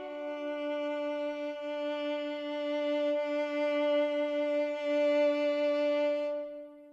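Background music: a bowed violin holding one long, steady note that fades away near the end.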